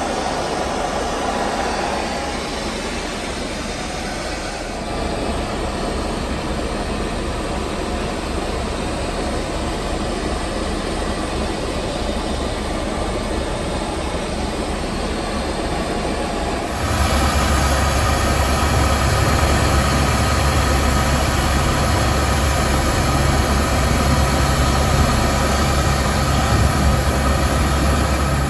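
Helicopter engine and rotor noise heard inside the cabin, a steady loud drone. About two-thirds of the way through it abruptly gets louder, with a heavier low rumble.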